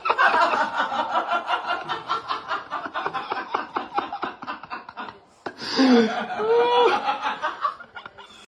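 A person laughing in quick, rhythmic bursts, breaking off about five seconds in and then laughing again with higher, sliding sounds before stopping suddenly.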